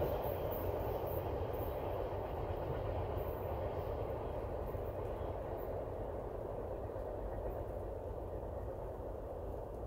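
A train rolling along the track and moving away, its rumble and wheel noise slowly fading.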